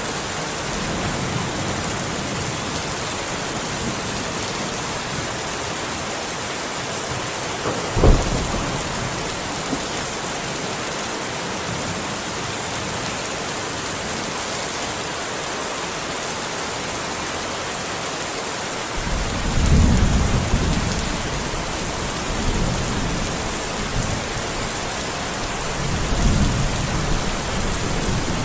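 Steady rain falling. A single sharp thunderclap comes about eight seconds in, and low rolling thunder rumbles twice in the last third.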